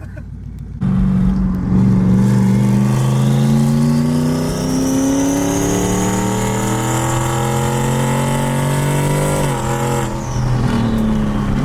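Turbocharged 2018 Ford Mustang GT's 5.0 V8 accelerating in one long pull, its engine note climbing for about eight seconds with the turbo's whistle rising above it. Near the end the throttle lifts and the pitch drops.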